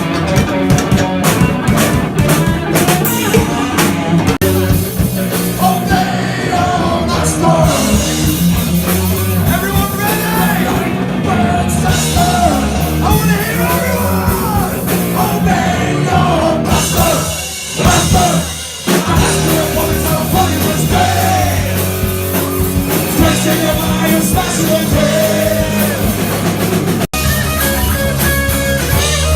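Live rock band playing loud, with drum kit, distorted electric guitars and a singing vocal. There is a brief dip in the middle, and the sound breaks off abruptly a couple of seconds before the end, then the guitars carry on.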